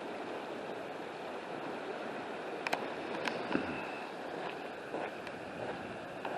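Fast-moving floodwater rushing steadily, with two faint sharp clicks about three seconds in.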